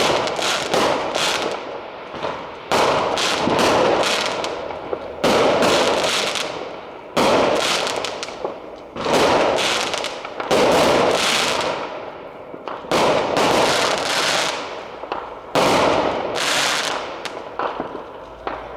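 Fireworks going off in quick succession: sudden loud bursts about every second or two, each trailing off in a crackling hiss.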